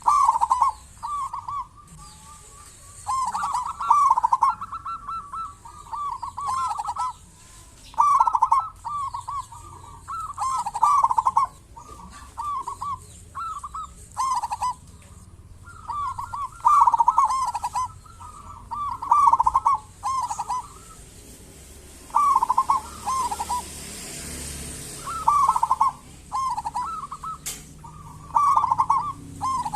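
Zebra dove (perkutut) of a local strain, cooing over and over: short phrases of rolling notes, one after another with brief gaps between them.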